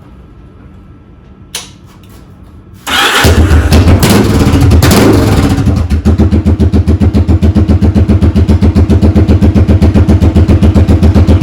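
Yamaha DragStar 1100's V-twin engine through straight-pipe slash-cut mufflers, starting up loudly about three seconds in after a single click. It runs unevenly for about three seconds, then settles into a steady pulsing idle.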